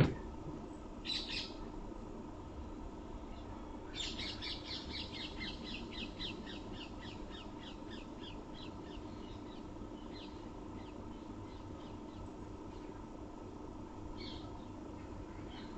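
Bird calling: a short harsh call about a second in, then a rapid chattering run of harsh notes, about four a second, that fades away over about five seconds. A faint steady hum lies underneath.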